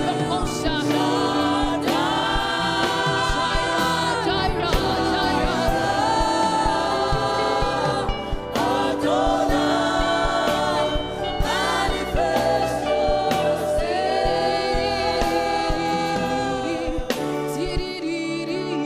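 Live gospel worship music: a group of singers holding long sung lines over a band with a steady beat.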